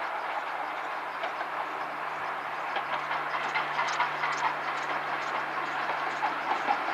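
A train running along the track: a steady rush of wheel and rail noise with a low steady hum, and a rising run of sharp clicks and clatters from about halfway through.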